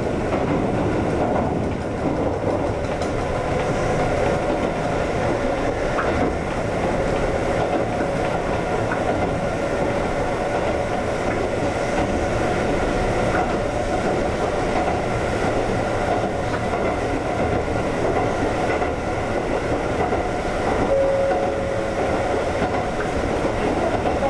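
Ex-Tokyu 7000 series electric train running along the line, heard from inside the car: a steady rumble of wheels on rail with clickety-clack from the rail joints. A thin steady tone rises out of the rumble now and then, most clearly near the end.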